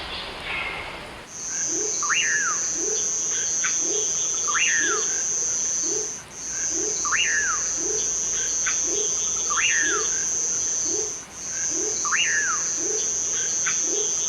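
Nature ambience of birds and insects: a steady, high-pitched insect trill that breaks off briefly twice, with a sharp up-and-down bird call every couple of seconds and a short low rising note repeating under it. The ambience starts about a second in, after a hissier stretch.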